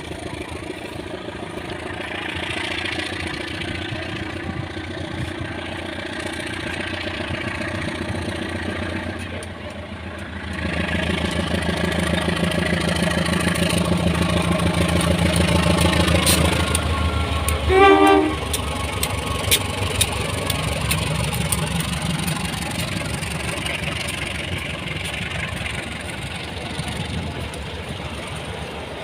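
Diesel train approaching on the line, its engine drone growing louder about ten seconds in. A short horn blast sounds a little past halfway.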